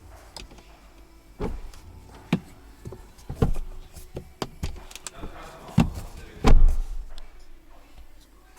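Clicks and knocks of a car's interior fittings being handled, with a heavier, deeper thump about six and a half seconds in.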